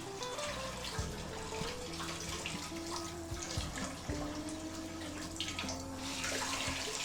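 Tap water running steadily, getting stronger near the end, over background music with slow held notes.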